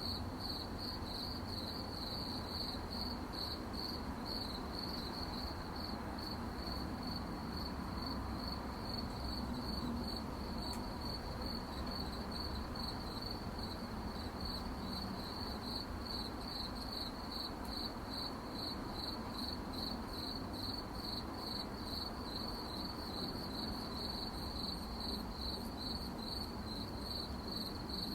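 Crickets chirping at night, a steady high trill that pulses about twice a second, over a low background hiss.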